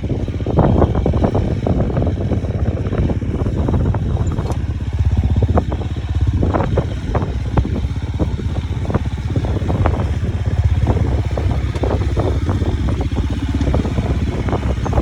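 Dirt bike engine running at low revs while descending a steep rocky trail, with frequent irregular clattering knocks from the bike jolting over rocks.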